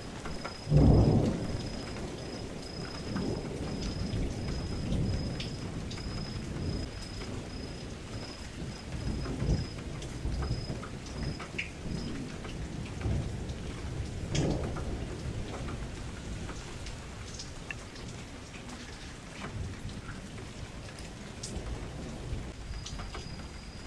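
Steady rain against a window with rolling rumbles of thunder. The loudest rumble comes about a second in, and another strong one comes about fourteen seconds in.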